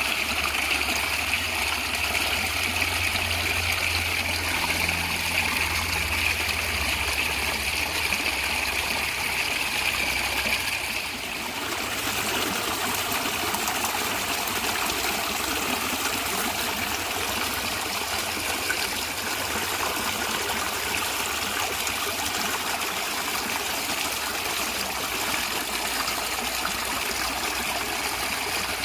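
A natural stream of water flowing and gurgling steadily. About eleven seconds in, the sound dips briefly and its character shifts slightly.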